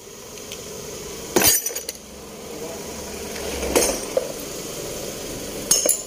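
Metal clinking and clanking three times, about a second and a half in, near four seconds and near the end, during work on a car engine's accessories.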